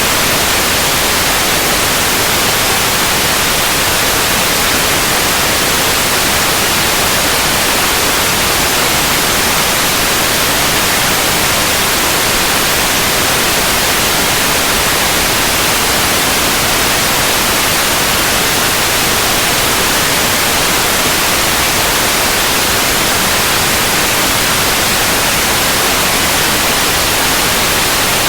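Continuous white noise: an even, unchanging hiss across the whole range, brightest in the highs.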